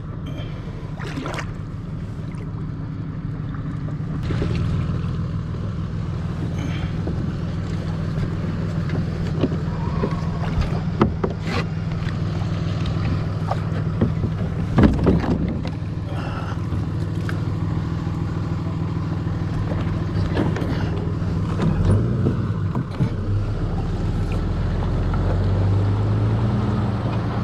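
An engine idling with a steady low hum, its pitch shifting slightly about four seconds in and again near the end, with scattered knocks and clicks over it.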